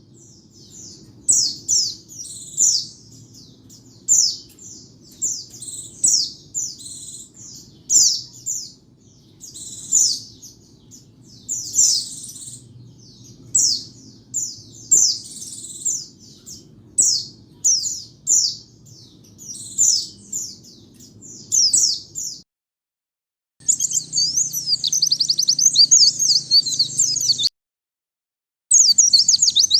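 White-eye (pleci) song: short, high twittering phrases repeated about once a second over a faint low hum. About two-thirds of the way through the sound cuts out briefly, then a denser, faster run of twittering follows, another short gap, and more song near the end.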